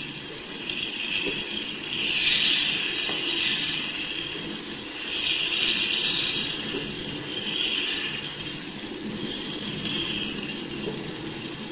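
Chicken in a tomato and yogurt masala sizzling in a nonstick frying pan while a wooden spatula stirs and scrapes through it. The hiss swells and fades several times with the stirring.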